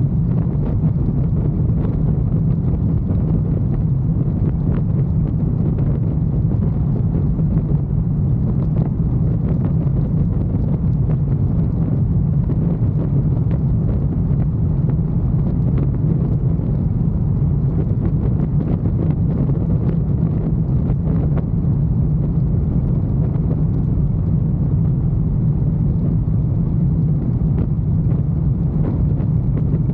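Motorcycle engine running at a steady cruise, mixed with wind and road noise; the engine's pitch and level hold constant throughout.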